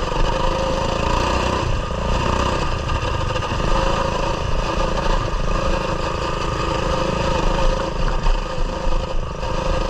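Coleman mini bike's small single-cylinder engine running at a fairly steady speed while being ridden.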